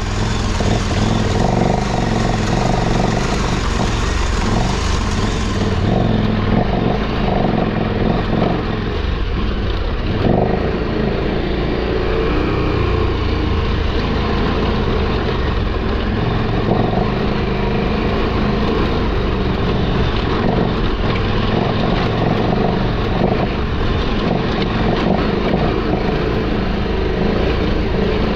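KTM adventure motorcycle engine running continuously under load while climbing a steep, rough trail.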